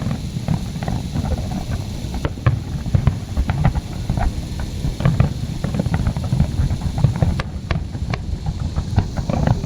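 New Year fireworks going off: a dense, irregular string of sharp pops and crackles over a heavy low rumble of booms.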